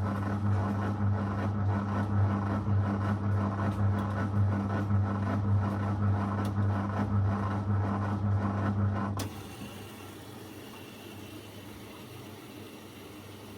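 Zanussi FL984CN washing machine's drain pump running with a steady low hum, which cuts off suddenly about nine seconds in and leaves a quieter steady hiss.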